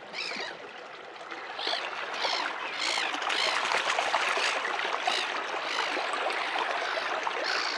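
Shallow stream water rushing and gurgling over rocks, getting louder about a second and a half in.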